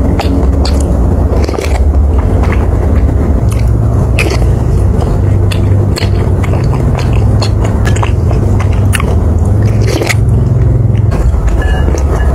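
Close-miked chewing of chewy bakso aci, tapioca meatballs in spicy broth, with many short wet clicks and smacks over a steady low rumble.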